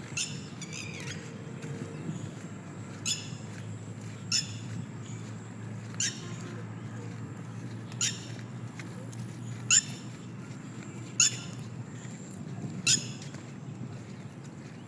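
A bird's short, harsh squawking call, repeated about eight times at intervals of a second and a half to two seconds.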